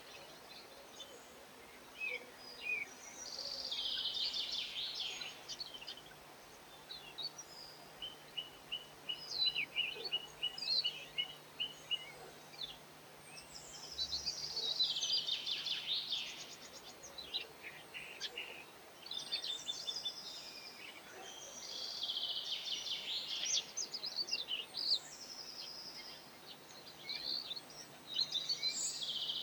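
Small songbirds singing: bursts of fast, high twittering warble come again and again, and a run of quick repeated notes sounds about a third of the way in.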